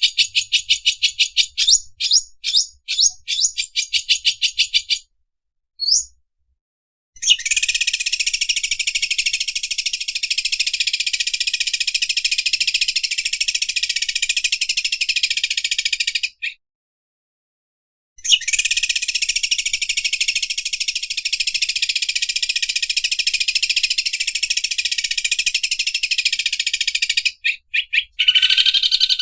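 Green leafbird (cucak ijo) singing its fast, machine-like 'overlock' trill. A string of quick repeated notes and a short rising note are followed by two long, rapid, buzzing trills, each about nine seconds long, with a short pause between them.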